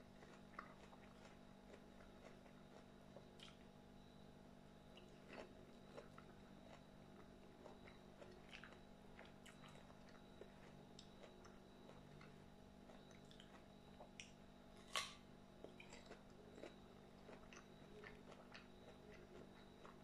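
Faint chewing and biting of fresh peach slices: soft, scattered wet clicks and mouth sounds, with one louder click about three-quarters of the way through.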